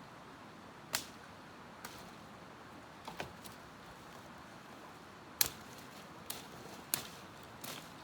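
Sharp, irregular strikes of a tool on wood, like chopping or trimming branches, about eight in all with the loudest just past the middle, over a faint steady background hiss.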